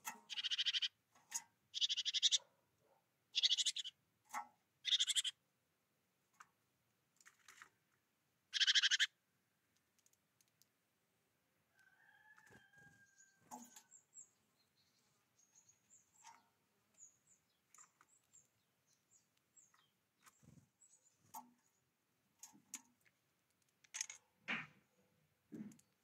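Songbird giving harsh, rasping calls, six short bursts in the first nine seconds, followed by faint high chirping. Scattered light taps and knocks come near the end.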